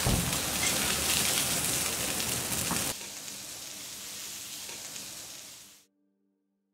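Sausages sizzling and frying on a hot flat hotplate, a loud hiss for about three seconds that then drops to a quieter sizzle and fades away.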